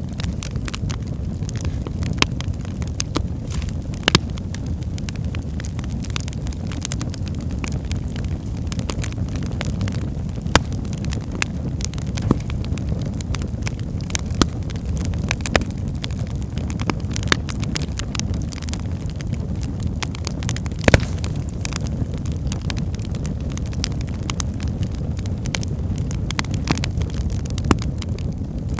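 Wood fire burning in a fireplace: a steady low rumble of flames with irregular sharp crackles and pops from the logs, one louder pop about two-thirds of the way through.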